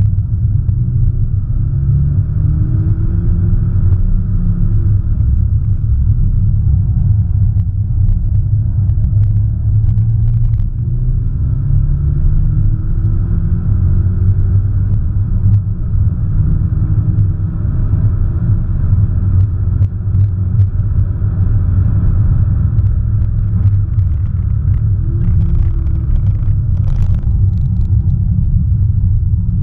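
Audi S1 Sportback's turbocharged 2.0-litre four-cylinder and road noise heard from inside the cabin at track speed: a heavy, steady low drone, with the engine note rising again and again as it revs up through the gears.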